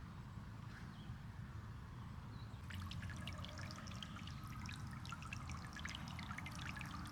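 Water pouring and splashing, starting about three seconds in, over a low steady rumble.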